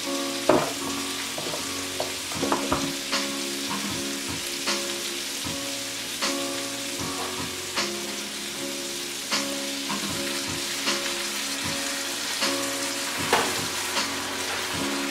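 White beans and onions frying in oil in a nonstick pan: a steady sizzle, with a spatula stirring through them and a few sharp taps. Soft background music with sustained chords plays underneath.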